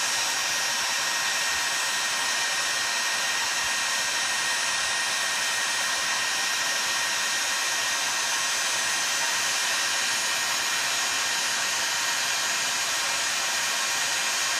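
Heat gun blowing hot air steadily with a faint whine, heating a chainsaw crankcase half so that it expands to slip over the crankshaft.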